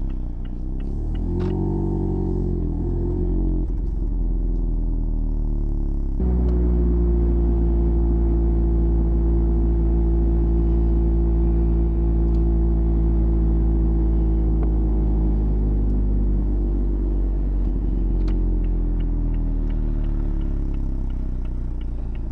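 Mazda MX-5's 1.5-litre four-cylinder engine driving. Its pitch rises and falls several times in the first few seconds, then it jumps to a louder, steady note held for about ten seconds, and the note falls away near the end.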